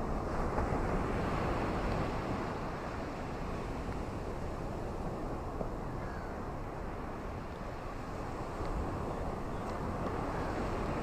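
Ocean waves washing onto a beach, a steady surf noise that swells louder about a second in and again near the end.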